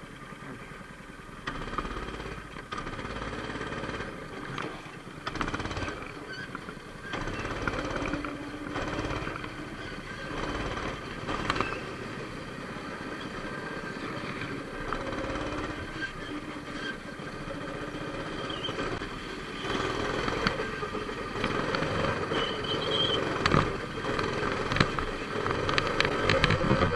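Motorcycle engines running, their pitch rising and falling with the revs, with scattered sharp clicks.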